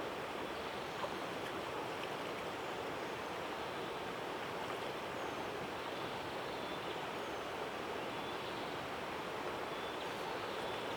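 River water flowing: a steady, even rushing, with a few faint high chirps now and then.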